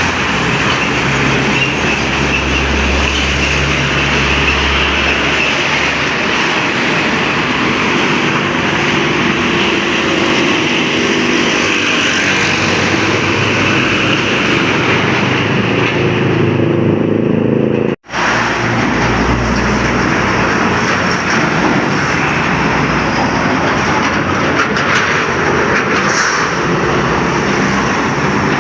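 Highway traffic passing close by: truck and car engines and tyre noise. The sound cuts out for an instant about two-thirds of the way through.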